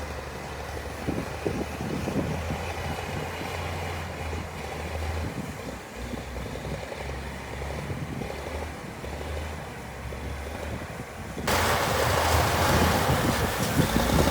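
Diesel engine of heavy earthmoving equipment running, a steady low drone. About eleven seconds in it becomes abruptly louder and harsher.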